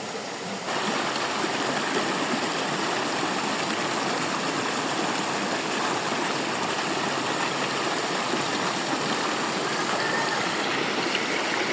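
Rushing water of a waterfall and its stream, a steady hiss that gets louder just under a second in and then holds even.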